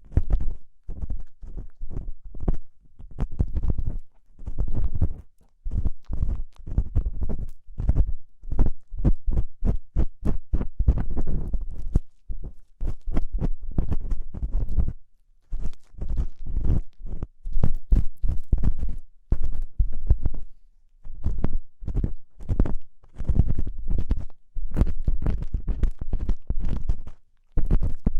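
Ear pick scraping and scratching inside a binaural microphone's ear canal, close up. It comes in bunches of short, scratchy strokes with brief pauses between them.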